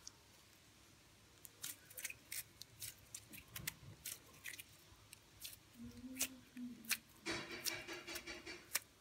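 Gummy slime being squeezed and poked, giving off irregular small sticky clicks and crackles, denser near the end.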